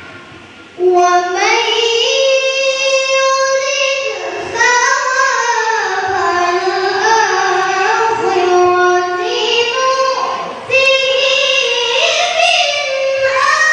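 A boy's voice reciting the Qur'an in melodic tilawah style, with long held notes that glide up and down. Three phrases, with short breaths about four and a half seconds in and again near eleven seconds.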